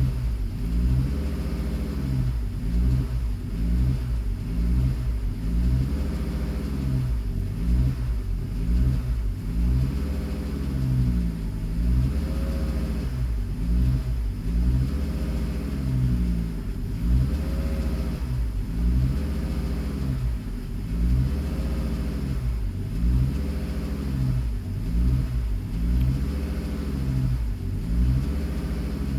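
Car engine running with its speed rising and falling over and over, about once every one to two seconds, while a fault code is active.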